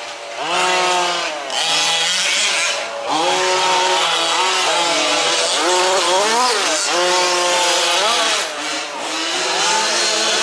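Small two-stroke petrol engines of 1/5-scale remote-control off-road race trucks running hard, revving up and dropping back again every second or two as they race round the track.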